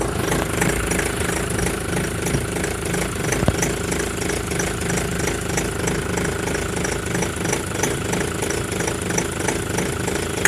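2001 Ford Transit 2.0 engine running steadily with a regular knock, about two a second, whose cause the owner cannot find.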